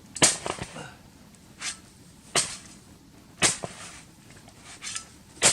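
Boots crunching and packing down cold snow, one sharp crunch roughly every second.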